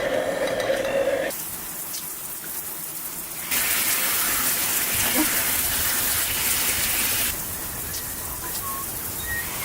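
An electric blender whirring with aloe vera stops about a second in. Then comes a steady hiss of falling water, loud for about four seconds in the middle, between quieter stretches, with a few short bird chirps near the end.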